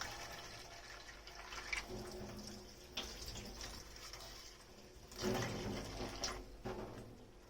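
Water running and splashing in a kitchen sink, with a few light knocks and clinks of dishes. A louder rush of water comes about five seconds in.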